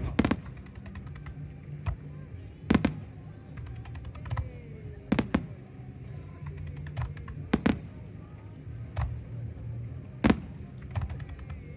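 Fireworks shells bursting, a loud bang about every two and a half seconds with smaller pops and crackling between them.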